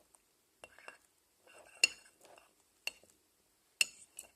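A utensil clinking and scraping against a container while slime is mixed: a few sharp clinks, roughly one a second, with softer scrapes between them.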